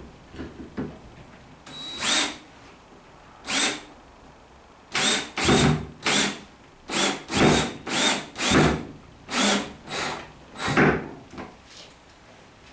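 Drill with a crosshead bit driving 40mm wood screws into wooden arris rail, run in about a dozen short whirring bursts of roughly half a second each. A few faint knocks come in the first second.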